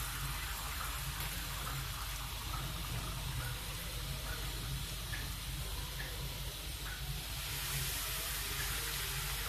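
Papdi sheets deep-frying in hot oil, a steady sizzle with faint small pops, growing a little louder near the end.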